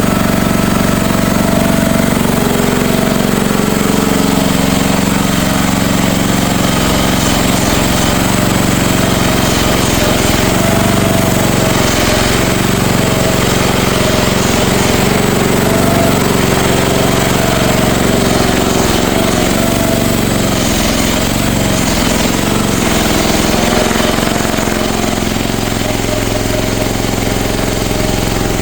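CFG MX15RX mini excavator's engine running steadily while warming up, its pitch wavering briefly about two-thirds of the way in.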